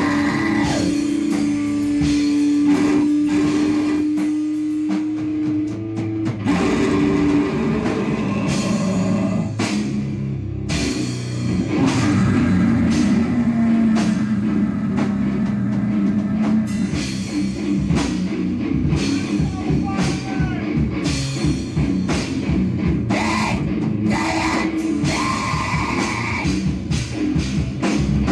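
Live band playing loud, heavy noise rock: distorted guitar holding long notes over a steady run of drum hits.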